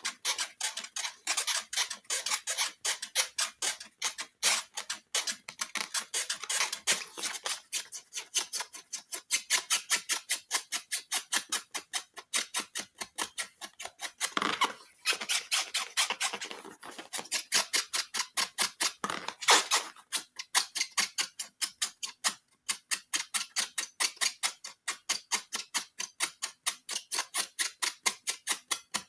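Scissors snipping over and over in quick, sharp clicks, about three or four a second, with a brief rustling smear in the middle.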